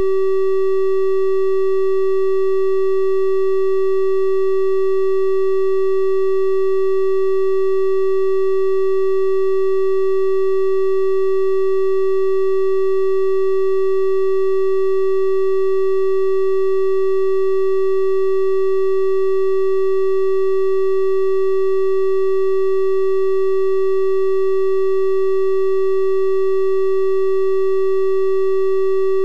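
Synthesized 384 Hz triangle-wave tone, held steady without change: a pure-sounding hum with faint overtones.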